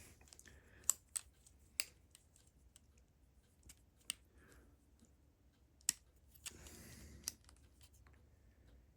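Plastic Lego pieces clicking and tapping as they are handled and pressed together: a few faint, sharp clicks spaced out over several seconds, with a brief soft rustle of handling near the end.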